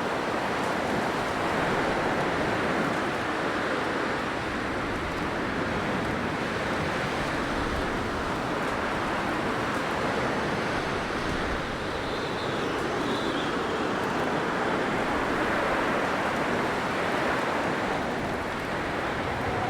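Blizzard wind blowing steadily: a dense, even rush of wind noise, with a faint high whistle briefly about twelve seconds in.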